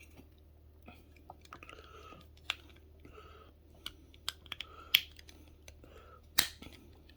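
Plastic packaging of a diecast model airplane being handled by hand: scattered sharp clicks and light crinkling, with louder clicks about five seconds in and again a little later.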